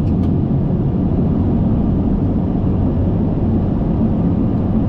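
Steady airflow rush and low rumble inside an Airbus A380 flight deck during the landing approach.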